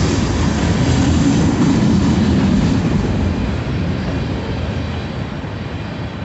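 Tail end of a mixed freight train rolling over a grade crossing: the rumble and rattle of covered hoppers and a flatcar on the rails. It fades about halfway through as the last car clears the crossing and moves away.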